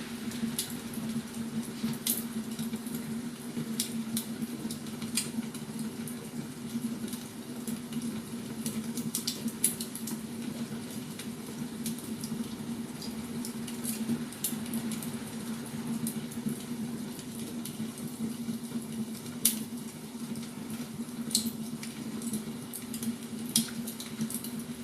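Firewood burning, crackling with irregular sharp pops and snaps over a steady low hum.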